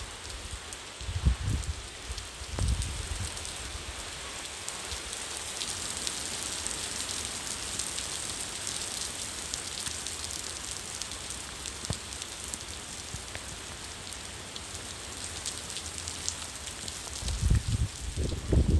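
Steady rain falling, a dense hiss full of small drop ticks. A few low rumbling bursts stand out: about a second in, near three seconds in, and again near the end, where they are the loudest thing.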